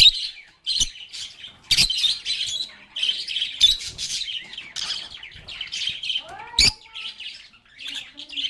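A flock of lovebirds chattering with rapid, high chirps that overlap continuously, broken by a few sharp clicks.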